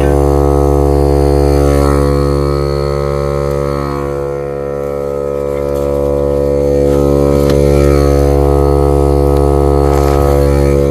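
Electric air compressor running steadily, a droning hum of several even tones that dips slightly in level about four seconds in.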